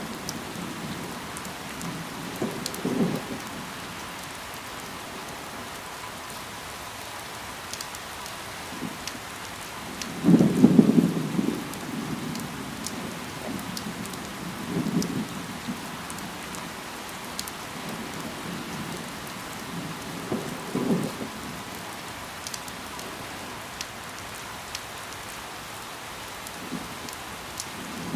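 Steady rain falling on leaves, with fine pattering drop clicks. Several short, deep rumbles come through it, the loudest about ten seconds in.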